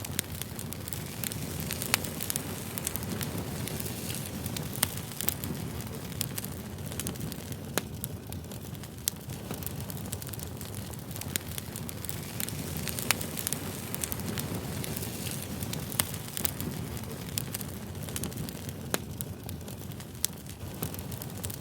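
Campfire burning: a steady low rush of flames with sharp crackles and pops of burning wood, irregularly every second or few.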